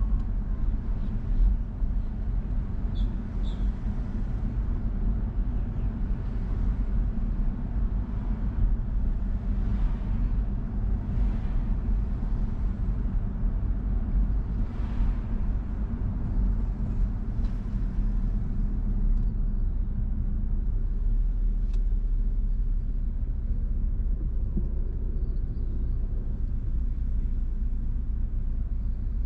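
Car on the move: a steady low rumble of engine and tyres, with a few faint swells of hiss in the middle.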